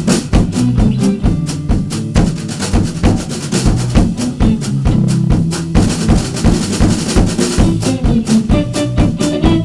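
Jazz combo playing an instrumental passage, a drum kit to the fore with quick, busy strokes over a moving low bass line.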